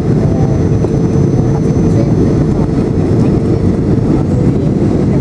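Boeing 737-800 airliner heard from inside the cabin during its landing: a loud, steady rumble of the CFM56 engines and rushing air, with a faint steady hum running through it.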